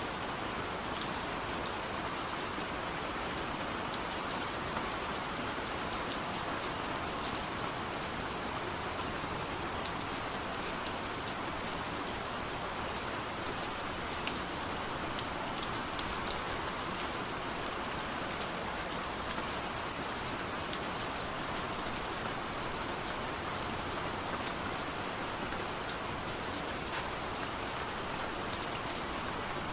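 Steady rain falling, a continuous hiss with many small, sharp drop ticks spattering on a surface.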